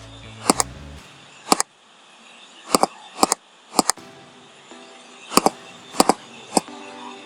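Loud, sharp clicks, mostly in quick pairs like double-clicks, about every half second to second, typical of a computer mouse picked up by the recording microphone. Quiet background music plays underneath.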